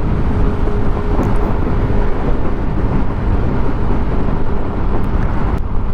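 Wind rushing over the rider's microphone on a TVS Scooty Zest scooter cruising at about 40 km/h, over a steady low rumble of engine and road noise; a faint steady hum runs through most of it.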